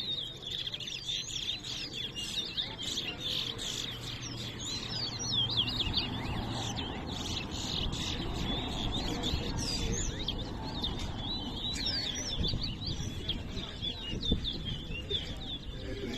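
Caged towa-towa seedfinches singing in a bird race: rapid, unbroken runs of high chirps and short whistled glides, with a low murmur of background noise underneath.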